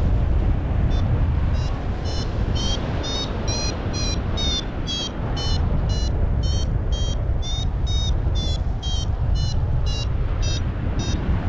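Paragliding variometer beeping in short high pips about two to three times a second, starting about a second in: the climb tone that signals the glider is rising in lift. Under it, heavy wind noise buffets the microphone.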